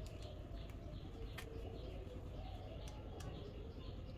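Birds chirping in the background, short high chirps repeating about three or four times a second, with two faint clicks.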